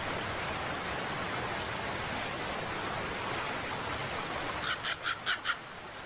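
Steady hiss of outdoor forest ambience. Near the end a bird gives a quick run of about five short, harsh high notes.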